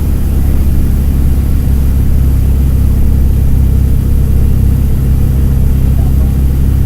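Mercedes-Benz OM-924 LA four-cylinder turbodiesel of an OF-1722M articulated bus running at a steady pitch, with a deep, even drone.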